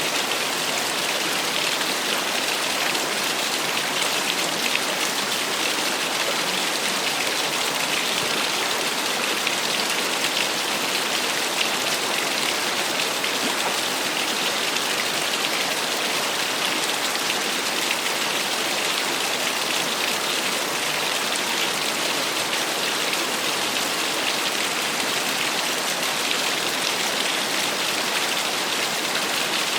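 Small waterfall: a steady, even rush of falling, splashing water, mostly a bright hiss with little deep rumble.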